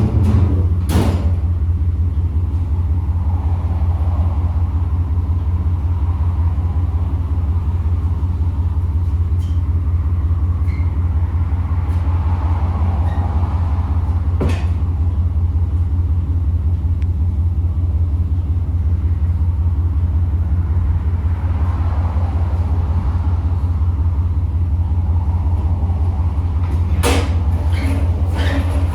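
Steady low drone of a vehicle's engine and road noise, with a few short knocks about a second in, halfway through and near the end.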